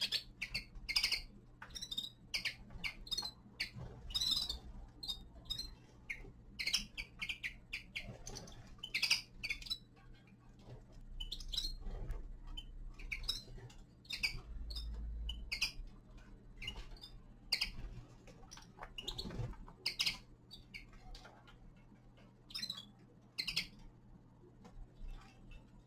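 Small finches giving short, sharp chirping calls in quick, irregular succession, thick in the first half and thinning out towards the end, over a faint steady low hum.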